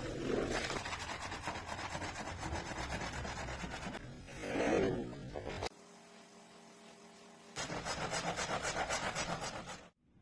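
A rug being scrubbed hard with a stiff brush in rapid, rhythmic rasping strokes. The scrubbing drops abruptly to a quieter stretch of about two seconds, resumes quickly, and cuts off suddenly just before the end.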